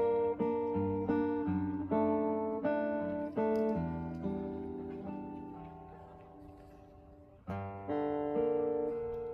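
Acoustic guitar playing the instrumental close of a slow song, with picked chords each left ringing. Midway one chord is held and fades away for a few seconds before the playing picks up again.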